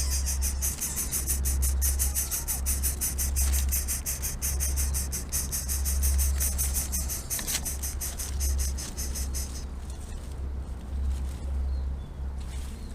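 Insects chirring in a rapid, even, high-pitched pulse that stops about ten seconds in, over a steady low rumble.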